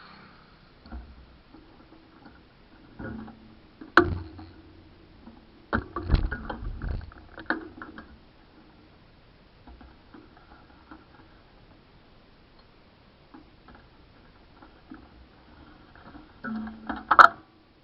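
Scattered clicks and knocks of small hard objects being handled and set down, with quiet between them. There is a sharp knock about four seconds in, a run of rattling knocks a couple of seconds later, and a loud click near the end.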